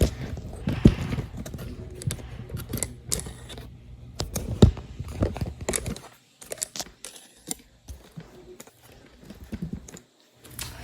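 Scattered clicks, taps and rattles of box fan parts being handled and worked loose during disassembly. A low background hum under the first half cuts out about halfway through.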